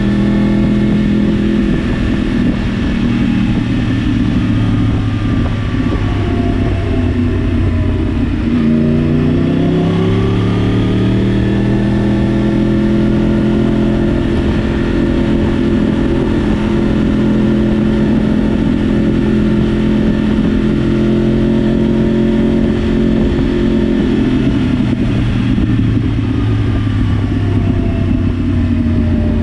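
A 2014 Yamaha R1's crossplane inline-four engine running as the bike is ridden. Its pitch drops about eight seconds in and then climbs again, holds steady for a long stretch, and falls off again near the end.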